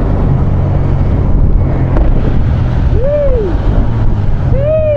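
Wind buffeting the microphone over a motorcycle engine running steadily while riding through rain. About three seconds in comes a short rising-and-falling tone, and another wavering one begins near the end.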